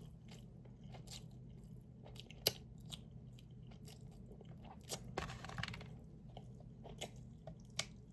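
Faint chewing and crunching mouth noises with scattered small clicks, and a sharper click about two and a half seconds in, while a chicken bone is stuck in the teeth.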